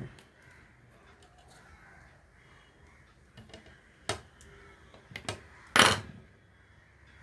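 Crows cawing in the background, with a few sharp knocks and clicks about four and five seconds in; the loudest sound comes just before six seconds.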